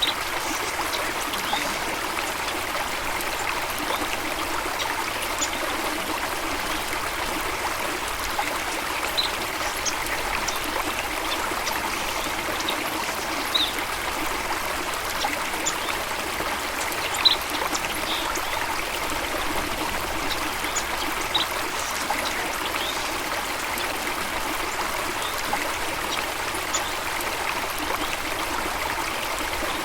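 Running water from a stream or small waterfall, a steady trickling rush. A few brief high chirps stand out now and then.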